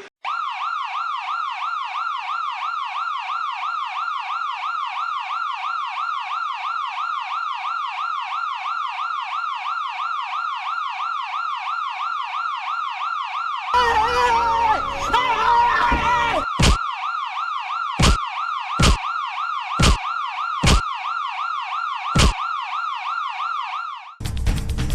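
Electronic toy siren warbling fast and steadily, a rapid up-and-down wail. Partway through other jumbled toy sounds join it, followed by a series of sharp clicks.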